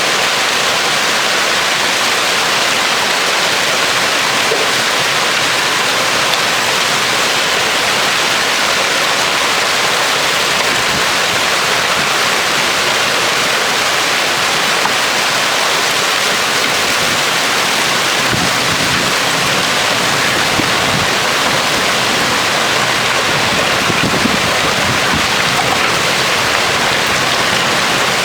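Heavy thunderstorm downpour: rain pouring steadily in a dense, even hiss.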